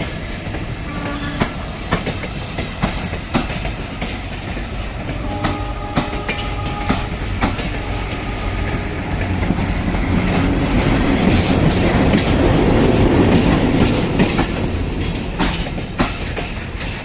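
A Bangladesh Railway train rolling past, its wheels clacking over the rail joints in a run of sharp knocks over a steady rumble. There are brief squealing tones about five to seven seconds in, and the train grows louder toward the middle before easing off.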